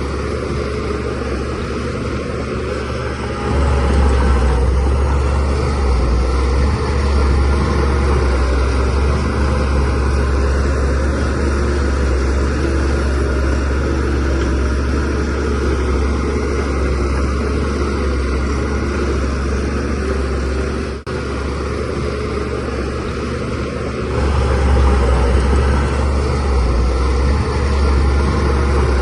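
DH17C3 bulldozer's diesel engine running steadily under load. It gets louder about three seconds in and again near the end, with a momentary drop about three quarters of the way through.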